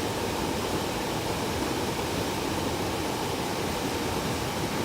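Steady rush of air from a running heat pump air handler, with a faint steady tone.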